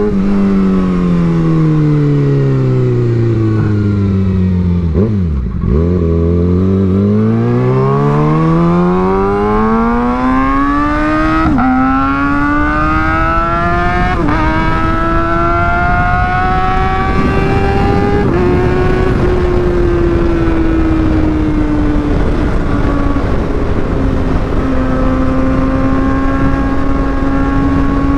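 Kawasaki ZX6R 636 inline-four through an Austin Racing GP1RR exhaust, heard from on the bike. The engine note falls for about five seconds as the bike slows, then rises as it accelerates, with quick upshifts about 11, 14 and 18 seconds in. After that it settles to a steady cruising note.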